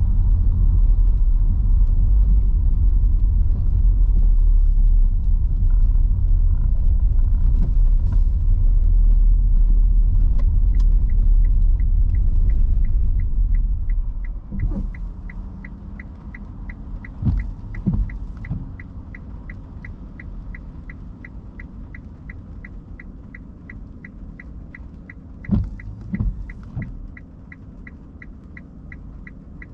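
Low road and tyre rumble of an electric car driving on wet streets, dying down about halfway through as the car slows. A steady, regular ticking like a turn-signal indicator starts partway through and keeps going, with a few dull thumps near the middle and near the end.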